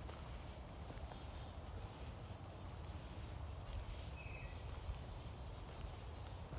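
Forest ambience: a steady low rumble with scattered faint clicks, and a few faint distant bird notes, including one short whistled note about four seconds in.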